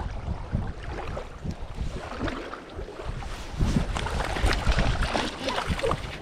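Strong wind buffeting the microphone in uneven gusts, with scattered small clicks and knocks in the second half.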